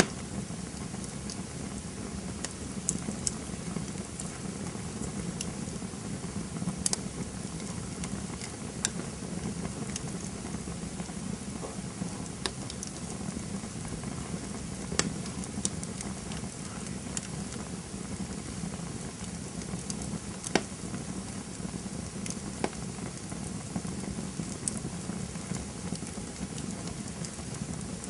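Campfire burning: a steady low rush of flames with irregular sharp crackles and pops from the burning wood, a few louder snaps scattered through.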